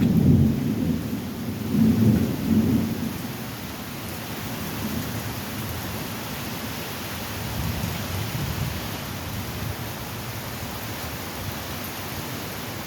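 Thunder rumbling over steady rain in a strong storm. The rumble is loudest at the start and swells again about two seconds in, then settles into a low rumble under the constant hiss of the rain.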